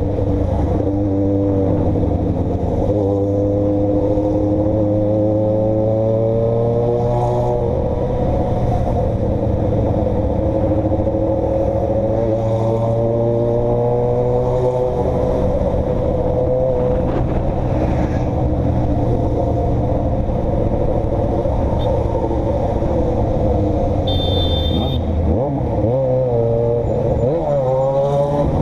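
Motor vehicle engine heard onboard while driving, its pitch climbing with the revs and dropping at gear changes, over a steady low drone of engine and road noise. A brief high beep sounds near the end.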